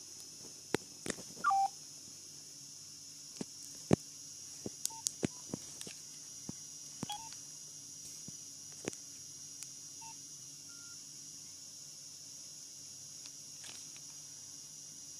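Nokia 2610 mobile phone's keypad being pressed: sharp button clicks scattered throughout, with short single key beeps every few seconds, over a steady faint hiss.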